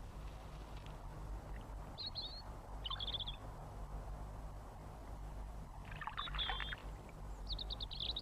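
Wren calling in short, rapid trilled bursts, four in all, a couple of seconds apart, with the longest near the end; a faint low hum lies underneath.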